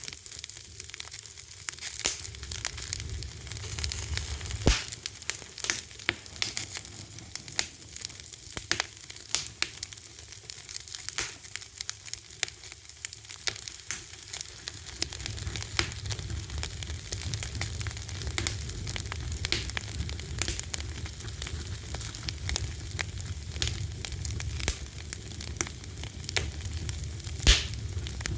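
Wood fire crackling: a steady hiss dotted with irregular pops and snaps, with a low rumble of flames, and two sharper pops about five seconds in and near the end.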